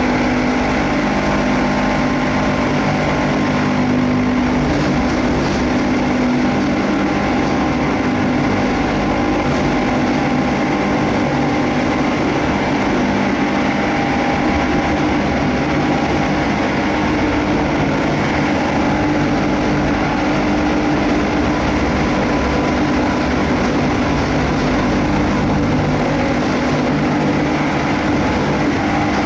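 Rormak plastic cutting machine running and chopping laminated woven sacks: a loud, steady mechanical din with a constant hum, unbroken throughout.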